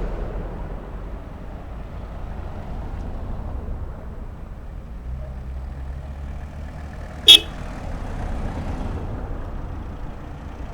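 A vehicle engine running low in the background, with one short, loud toot about seven seconds in.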